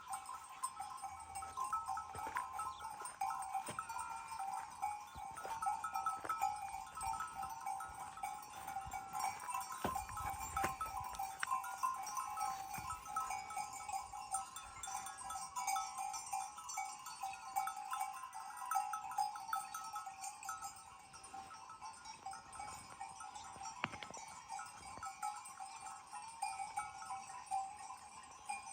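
Bells of grazing livestock jingling on and off, several fixed pitches ringing together without pause.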